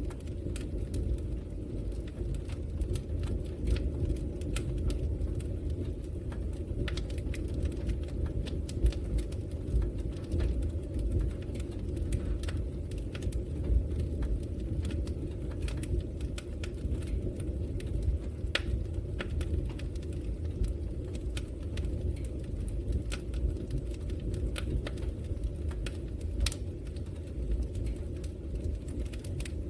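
Log fire burning in a fireplace: a steady low rumble of the flames with irregular sharp crackles and pops from the burning wood, a little louder now and then.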